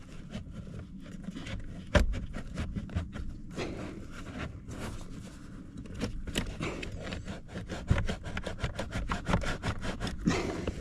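Truck heater blower being wrestled out from under the dashboard: irregular scraping and rubbing of the part against the housing, with many small clicks and knocks and a sharper knock about two seconds in, as it catches on something.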